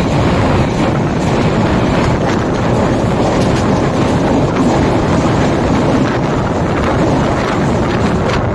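Express train running along the track: a loud, steady rumble of wheels on rails mixed with rushing wind.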